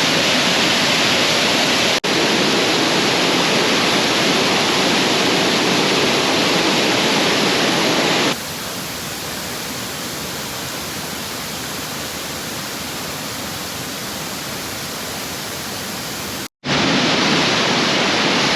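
A waterfall pouring, a steady rush of falling water. It drops suddenly in loudness about eight seconds in, cuts out for a moment near the end, then comes back as loud as before.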